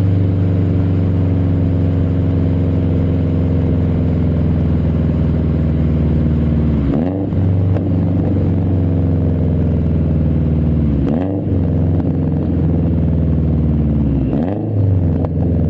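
2013 Subaru STI's turbocharged EJ257 flat-four, breathing through an unequal-length header, catless downpipe and Tomei cat-back exhaust, idling with a steady, even note. Three short throttle blips break the idle: the first about halfway through, then two more a few seconds apart near the end.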